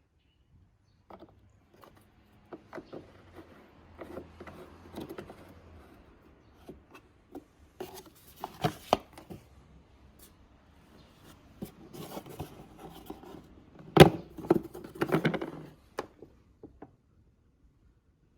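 Irregular clicks, knocks and rubbing of things being handled by hand, with one sharp knock about two-thirds of the way in followed by a burst of scraping.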